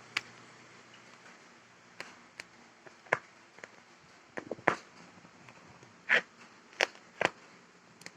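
A cat clawing and scratching at a mat: about ten short, separate scratching strokes at irregular intervals.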